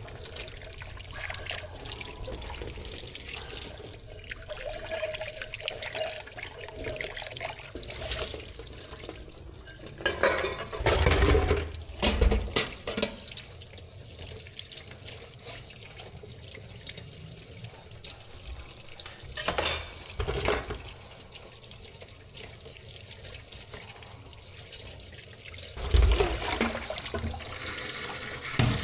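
Water running from a tap into a sink, with three short louder spells of splashing.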